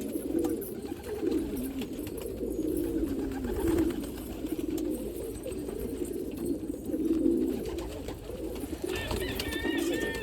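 Domestic pigeons cooing, several birds overlapping in a steady run of low, pulsing coos.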